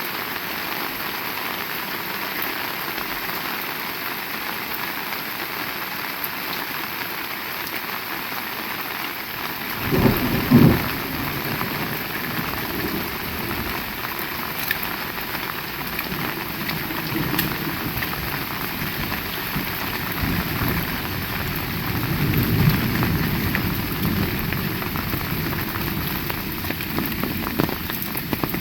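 Heavy rain falling steadily. About ten seconds in, a sudden crack of thunder, followed by low rolling thunder that rises and fades over the next several seconds.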